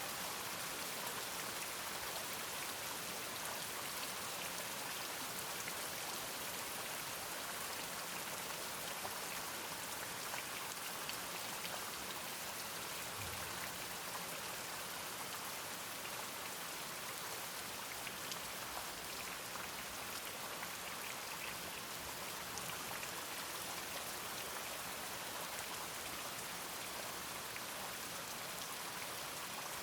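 Steady rain falling: an even hiss with many individual drops heard in it.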